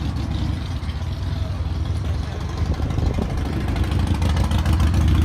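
A car engine idling with a low rumble, growing louder near the end.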